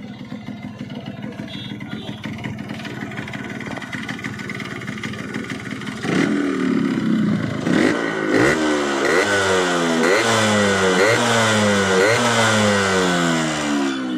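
Yamaha RX100 two-stroke single-cylinder engine running at a steady, rapidly pulsing idle, then from about six seconds in revved hard, its pitch repeatedly climbing and dropping sharply.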